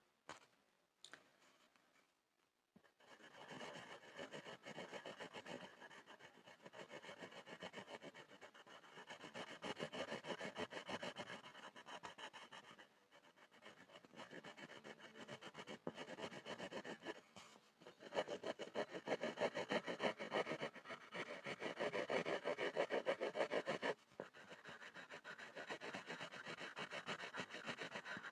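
Pencil scribbling on a wooden board: rapid, continuous scratching strokes that begin about three seconds in, after a short near-silent pause, and stop briefly a few times.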